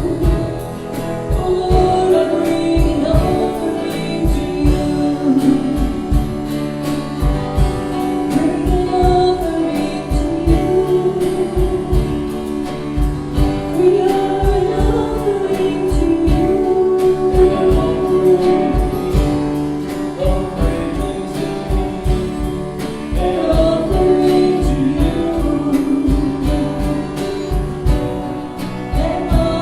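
A worship song sung by several voices to a band with a steady beat.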